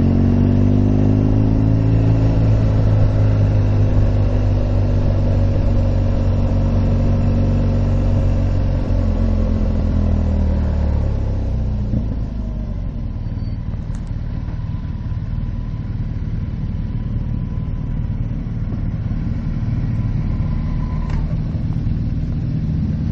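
Motorcycle engine running under way, its note falling gradually as it slows for the first half. About halfway through the engine sound drops back and a quieter steady rush of wind and road noise remains.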